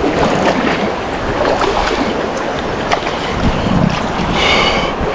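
Rushing mountain-stream water, a steady loud wash, with wind on the microphone. A short high-pitched sound comes near the end.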